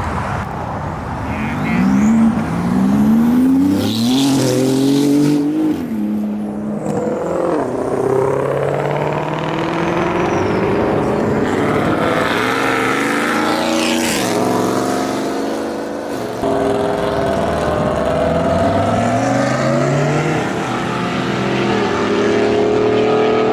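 High-performance car engines accelerating away one after another. Each engine climbs in pitch, drops back at a gear shift and climbs again, several times over.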